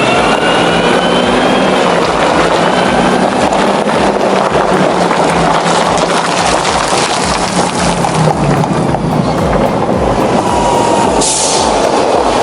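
Heavy truck engine running loud and hard under load. Its whine rises in pitch over the first two seconds or so, and a short hiss comes near the end.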